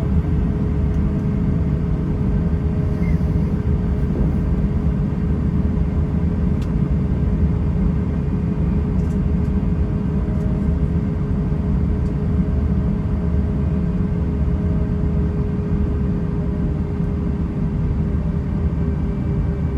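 Airbus A320 running at a steady power setting: a constant low rumble with a steady hum over it, unchanging throughout.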